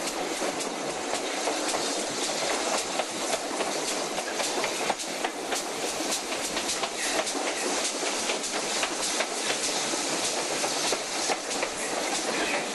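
Railway carriage in motion heard at an open window: a steady rush of noise with frequent clicks of the wheels running over the rail joints.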